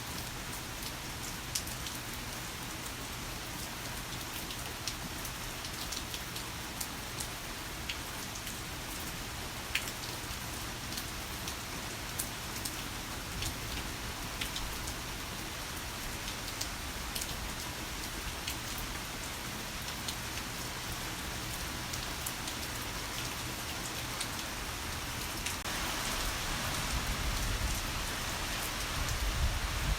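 Heavy rain falling steadily, a dense hiss with individual drops ticking through it. Near the end the downpour grows louder and a low rumble of distant thunder swells beneath it.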